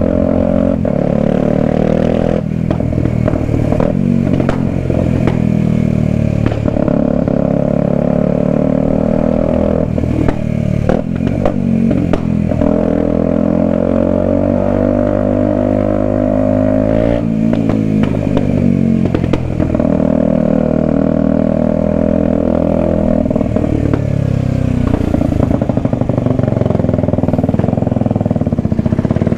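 Kawasaki Ninja 125's single-cylinder four-stroke engine running under way. Its pitch rises and falls repeatedly with throttle and gear changes, with a few short knocks and scrapes over it.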